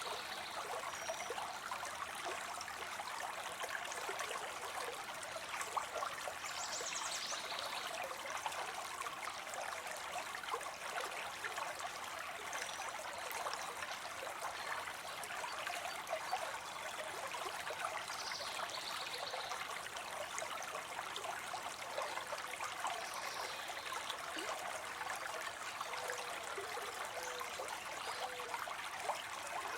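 Water spilling steadily into a pond: a constant trickling and splashing.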